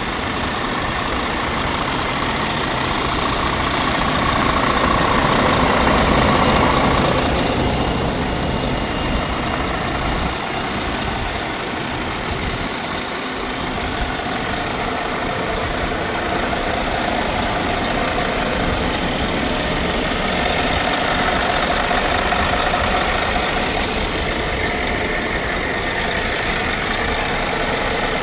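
2013 Scania P400 truck's 13-litre inline-six diesel engine (DC13 05) running steadily, its level swelling a little about five to seven seconds in.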